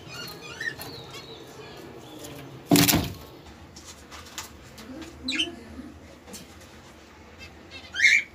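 Caged pet birds calling in short chirps, with a loud burst of wing flapping about three seconds in and a sharper, louder call near the end.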